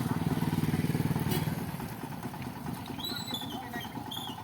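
A motor vehicle engine running with a fast, low pulse, loud for the first second and a half and then fading away. A few short high chirps come near the end.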